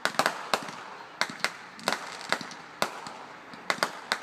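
Fireworks going off in quick, irregular succession: about a dozen sharp bangs, some close together, with crackling between them.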